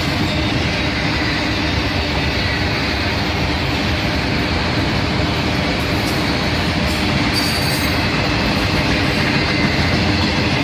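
CSX freight train's cars rolling past at speed, a steady loud rumble of wheels on rail, with a few faint, brief wheel squeals.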